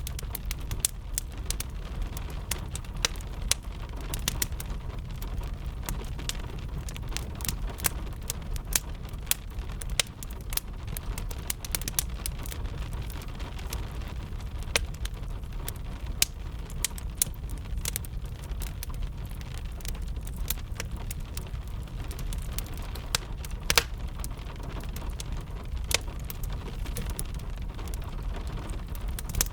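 Wood fire crackling with frequent, irregular sharp pops over steady rain, with a constant low rumble underneath.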